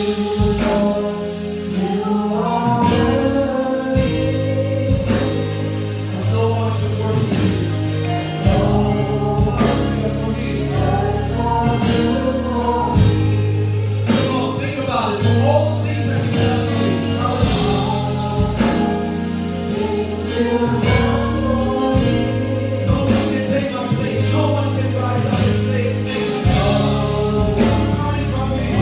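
Gospel worship song: a choir and singers with a band, steady bass and a regular drum beat.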